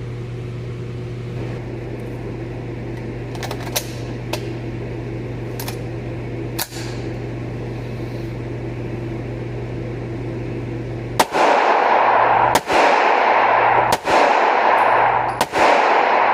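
Gunshots from a firearm on a shooting range: a few faint shots over a steady low hum, then, about eleven seconds in, four loud shots fired at an even pace about one and a half seconds apart, each with a lingering ring.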